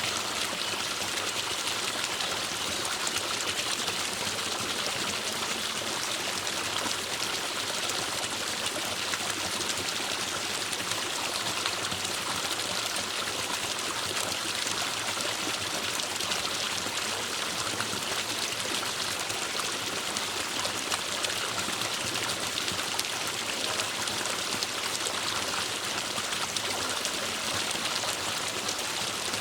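Forest stream flowing over rocks, a steady rushing and trickling of water.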